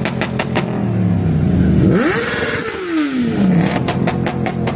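Car engine idling, then revved once about two seconds in: the pitch climbs quickly, holds briefly and falls back to idle. Short clusters of sharp clicks come near the start and again near the end.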